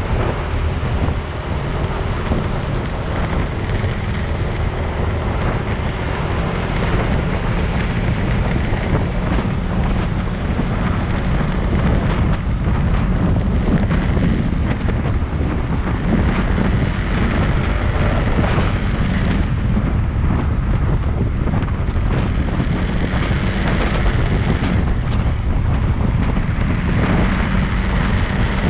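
Motorcycle riding along, a steady low rumble of engine and road noise with heavy wind buffeting on the microphone.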